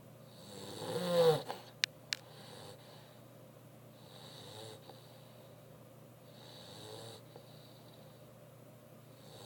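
A sleeping mastiff snoring: one loud, pitched snore about a second in, then two softer snoring breaths a few seconds apart. Two short sharp clicks come just after the loud snore.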